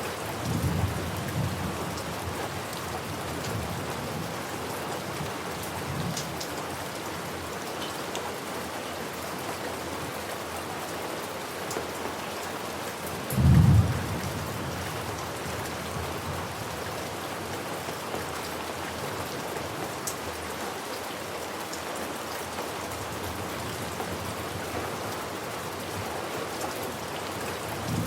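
Steady heavy rain with low rumbles of thunder near the start and the end, and a short, louder low boom of thunder about halfway through.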